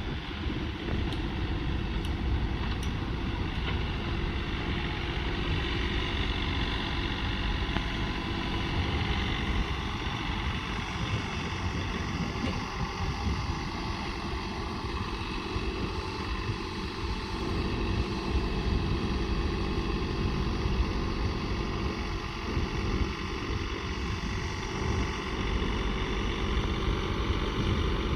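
John Deere 3043D compact tractor's diesel engine running steadily.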